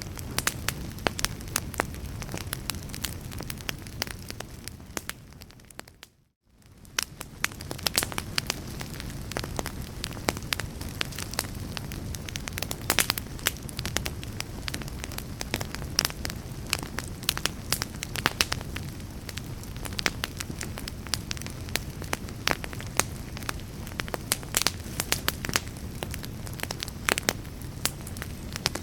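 Wood fire in a fireplace crackling and popping over a low steady rush. About six seconds in the sound fades out to near silence and fades back in, like the seam of a loop, then the crackling carries on.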